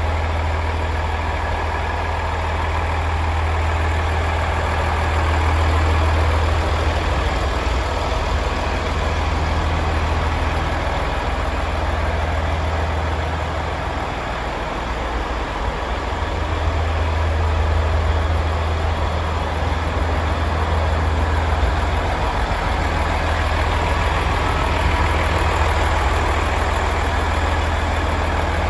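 Volvo D13C 460 hp straight-six turbo diesel in a truck tractor unit idling steadily, with a deep low hum.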